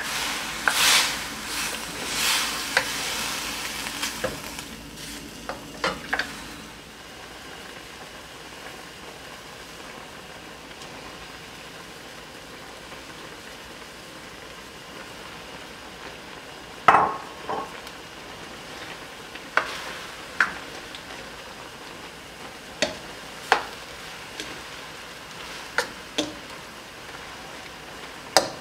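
Shrimp and vegetables sizzling in a stainless steel wok while a wooden spoon stirs and scrapes through them, loudest in the first few seconds. Then a steady low sizzle, broken in the second half by several sharp knocks of the spoon against the pan as rice is stirred in.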